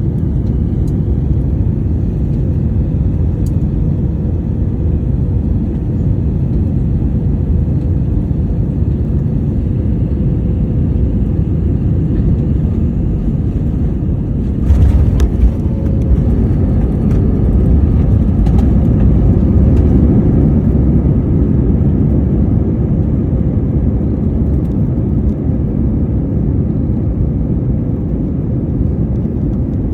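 Low, steady rumble of a landing Airbus A321 jet airliner. It grows louder from about halfway, after a short rough burst.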